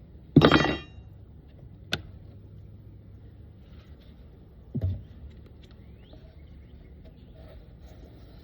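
Wooden beehive parts being handled: a short loud scrape about half a second in, a sharp knock near two seconds and a dull thump near five seconds, over a steady low hum.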